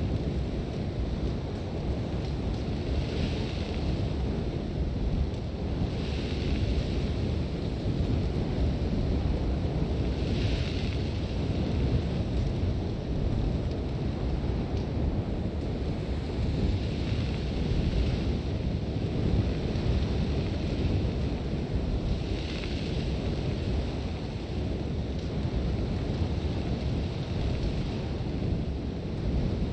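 Sandstorm wind blowing hard in a steady low rumble, with gusts every few seconds carrying a brief hiss of blown sand.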